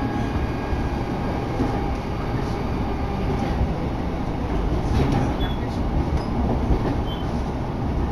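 Electric commuter train running along the line, heard from inside the carriage: a steady low rumble of the wheels and running gear, with a few faint clicks.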